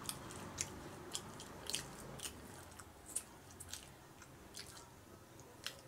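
Person chewing a mouthful of doughnut close to the microphone, with small irregular mouth clicks a few times a second.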